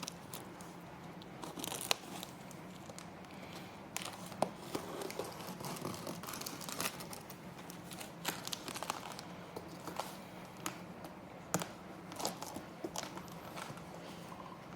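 Packaging being torn open and handled: tape and wrapping tearing and crinkling, with scattered sharp clicks and knocks throughout.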